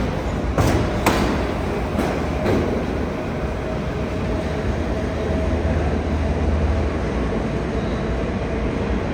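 Damaged R62A subway cars being towed along the track: the wheels clack sharply over rail joints about four times in the first few seconds, then settle into a steady rumble.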